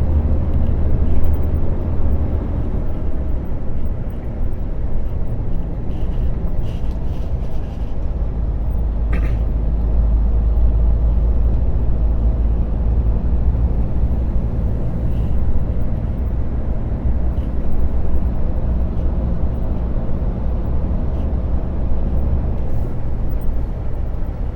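Steady low rumble of an articulated lorry's diesel engine and road noise heard from inside the cab while driving, with a short high squeak about nine seconds in.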